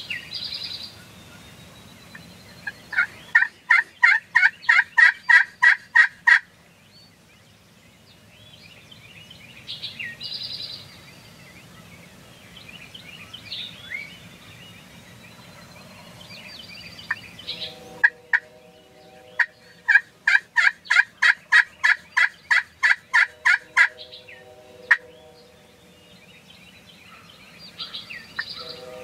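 Turkey calling: two long runs of rapid, evenly spaced notes, about four a second for several seconds each, with softer bird chirps between.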